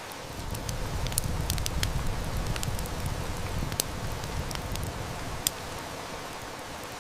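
Steady heavy rain with a wood fire crackling in sharp, irregular snaps. A low rumble of distant thunder swells about half a second in and dies away after about five seconds.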